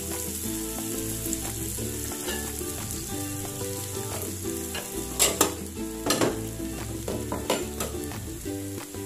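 A pan of cimongkak (turkey berries) and dried anchovies sizzling steadily, the stove just switched off, with a few sharp clicks about halfway through. Faint background music under it.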